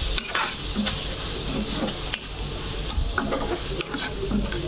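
Onion-tomato masala sizzling in a frying pan while a metal spatula stirs it. The steady sizzle is broken by scattered scrapes and clicks of the spatula against the pan.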